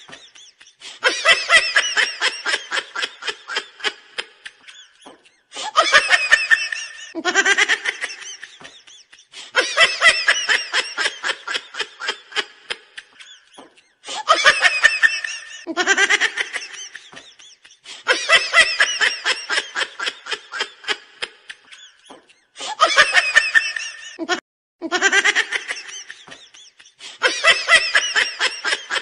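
A laughter sound effect: the same burst of rapid 'ha-ha-ha' laughing repeats about ten times. Each burst fades away and cuts off sharply into silence before the next one starts.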